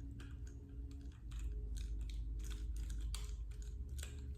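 Scattered light clicks and taps of small plastic parts as a model boxcar and its couplers are handled, over a low steady hum that grows a little louder about a second in.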